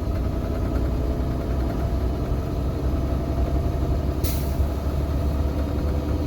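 Heavy truck's diesel engine running steadily at a low, even pitch, with a short hiss of released air about four seconds in.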